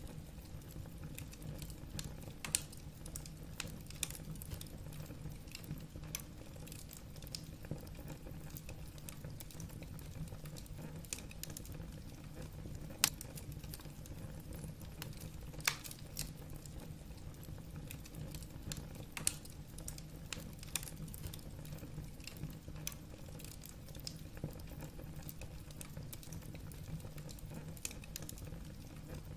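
Wood fire burning in a fireplace: logs crackling with irregular sharp pops, a few louder snaps scattered through, over a steady low rumble of the flames.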